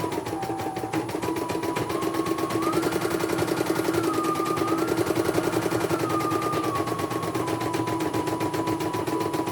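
Computerized embroidery machine stitching, its needle chattering in rapid strokes over a motor whine that steps up and down in pitch a few times as the speed changes.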